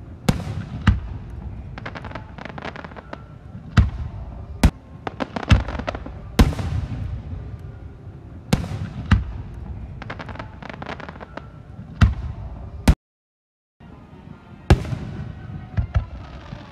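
Aerial fireworks display: a run of sharp booms at irregular intervals, several followed by quick crackling clusters. The sound cuts out completely for under a second near the end.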